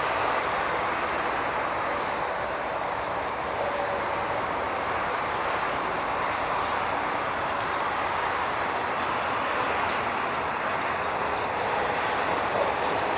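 Diesel-hauled passenger train running at a distance, a steady rumble of engine and wheels. A faint high-pitched sound comes in briefly three times, each about a second long.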